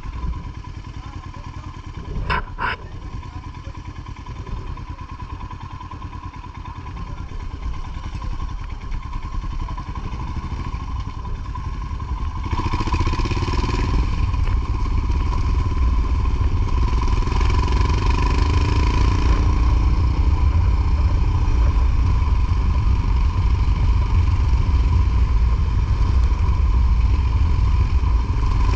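Motorcycle engine running under way, with road and wind noise that grows clearly louder about twelve seconds in as the bike speeds up. There are two quick knocks a couple of seconds in.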